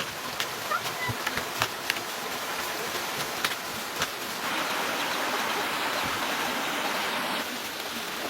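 Steady rushing water with scattered light clicks and taps. A louder rush of water sets in about halfway through and lasts about three seconds before stopping.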